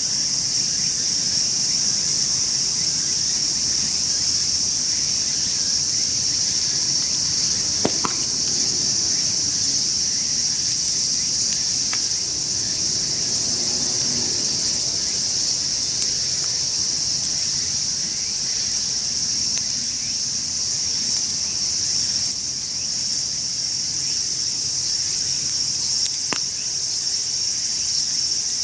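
A steady, high-pitched chorus of insects, crickets or similar, trilling without a break. A few sharp pops from the wood campfire are heard over it, the clearest about a third of the way in and near the end.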